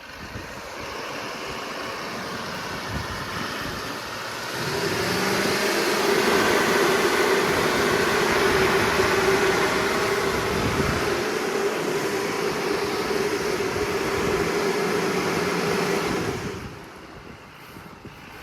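GMC Sierra 2500 AT4X pickup's engine revving hard while the truck is stuck in mud, the driver trying to power it free. The engine note climbs about four seconds in, holds high and steady for some twelve seconds, then drops back near the end.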